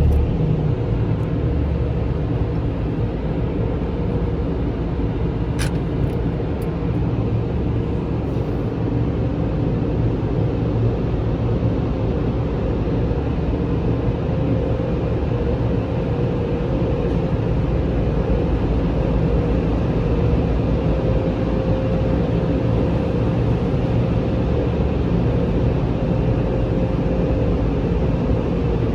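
Steady low rumble of a car idling inside a touch-free automatic car wash bay, with the wash machinery running. There is a single click about six seconds in, and a faint steady hum joins about halfway.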